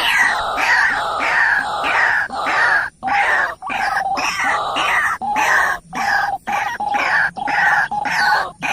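Birds calling loudly over and over, harsh repeated calls about two a second with short breaks.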